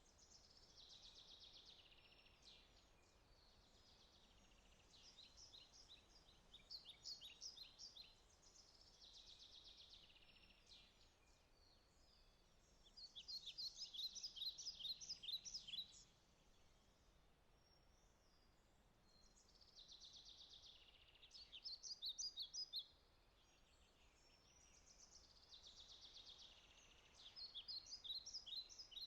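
A songbird singing, repeating phrases of quick high notes every few seconds, over a faint steady hiss.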